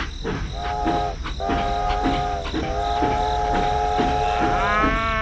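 Train horn sounding in long held chords over a steady rhythmic clickety-clack of wheels on rails; near the end the horn changes to a higher tone that bends up and back down.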